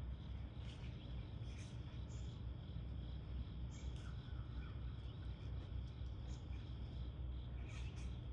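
Insects chirring steadily, with short high chirps scattered throughout, over a continuous low rumble.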